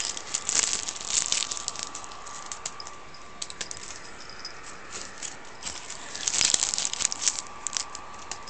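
Crinkling and rattling of bits of rubbish as a cat wearing a cone rummages through them: irregular crackles and clicks, busiest near the start and again about six to seven seconds in, over a faint steady whine.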